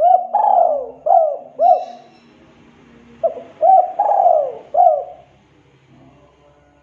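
Spotted dove (tekukur) cooing in two phrases of about four notes each, the second phrase coming about three seconds after the first.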